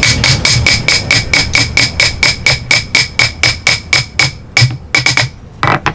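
Rapid, even hammer strikes, about six a second, each with a bright ringing tone like a hammer face meeting metal, slowing and thinning out after about four seconds, with a last couple of blows near the end.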